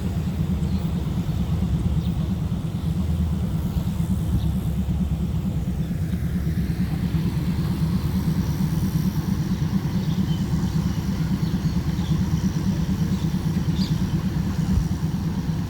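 Diesel train engine running steadily, a low, even rumble.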